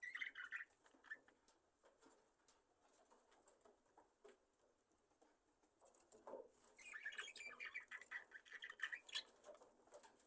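Budgerigars chirping faintly: a short chirp at the start, then a stretch of soft twittering from about six to nine seconds in, with scattered small clicks and rustles between.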